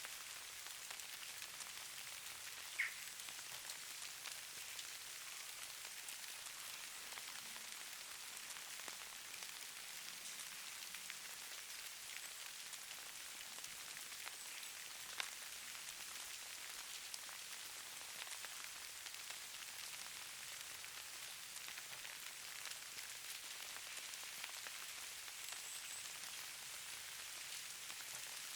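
Steady soft hiss and fine patter of falling precipitation, sold as falling snow, with two sharper ticks about 3 seconds and 15 seconds in.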